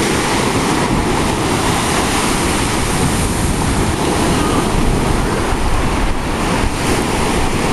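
Ocean surf breaking and washing up the beach in a steady, loud rush, with wind buffeting the microphone.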